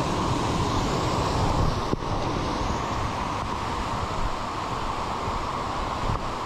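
Steady rushing roar of a waterfall's falling water, even and unbroken.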